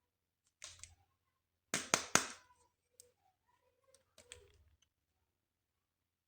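Clicks and short rustles from handling toys and their packaging during an unboxing: a brief rustle about half a second in, a loud cluster of sharp clicks around two seconds in, then a few softer clicks.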